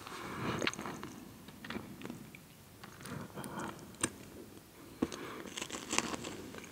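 Someone chewing a salty snack, with soft crunching and a few sharp, crisp clicks.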